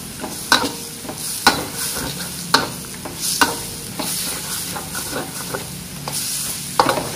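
Chicken skin and spice paste sizzling in a hot wok, stirred so that the utensil knocks and scrapes against the pan roughly once a second. The skin is frying to render out its fat as chicken oil.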